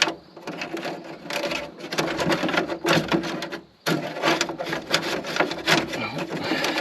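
Rapid clicking, rubbing and scraping of a plastic washer hose being pushed and worked through a hole in the car's body. There is a brief pause a little over halfway through.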